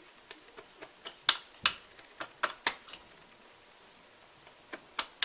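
Sharp metallic clicks and taps as a two-stroke piston and its wrist pin are worked off the connecting rod by hand: about a dozen irregular clicks in the first three seconds, then a few more near the end.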